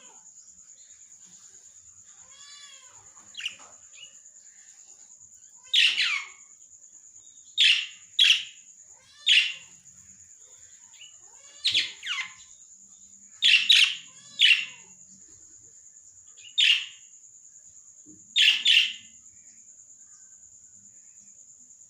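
Small pet parrots calling: soft faint chirps at first, then from about six seconds in a dozen or so short, loud, shrill calls, often in quick pairs, at irregular intervals. A steady high whine runs underneath.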